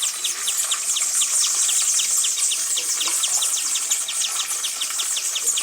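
Chorus of tropical birds and insects: a rapid, even series of short high chirps, about five or six a second, over a dense shrill high-pitched trill.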